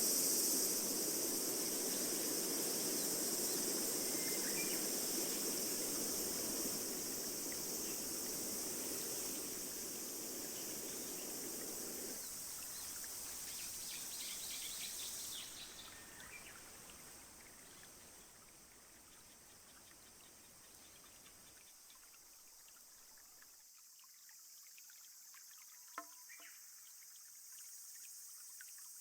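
Nature soundscape of steady rushing rain with a high, even hiss and a few brief bird chirps. The layers drop out one after another, about twelve and fifteen seconds in, leaving it much quieter, with a single short click near the end.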